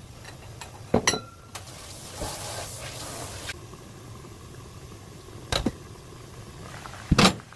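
Kitchenware clattering: three sharp knocks of a utensil or dish against cookware, about a second in, again after about five seconds, and loudest near the end, with a short hissing noise in between.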